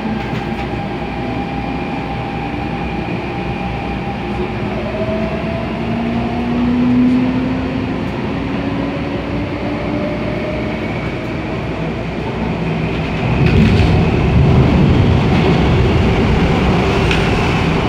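MTR A-Train electric multiple unit running on the Tung Chung Line: steady rail and running noise with faint motor tones that glide in pitch. About thirteen seconds in the running noise grows louder and rougher.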